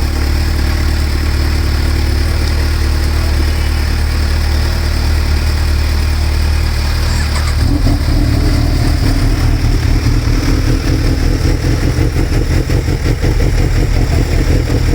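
Motorcycle engine idling; about halfway through the note changes to a choppier, more pulsing sound.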